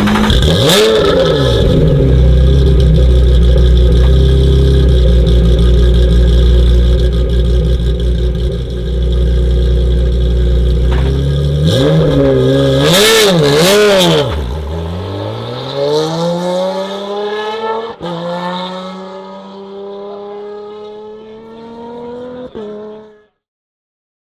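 Lotus Emira GT4 race car's supercharged 3.5-litre V6 running at steady revs, blipped up and down quickly near the start and again about twelve seconds in. Then it revs up in one long smooth rise as it pulls away and fades, cutting off suddenly near the end.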